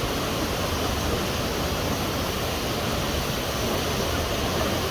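Steady rush of a waterfall, an even noise of falling water with no breaks.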